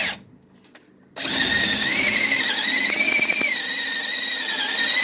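Electric hand drill boring into the car's sheet steel: after a brief burst at the start, the drill starts again about a second in and runs steadily, the bit squealing with a high, slightly wavering tone.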